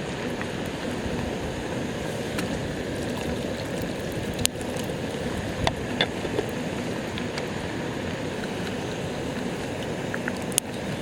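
Steady rushing, water-like noise with a few sharp pops or cracks, about four and a half, six and ten and a half seconds in.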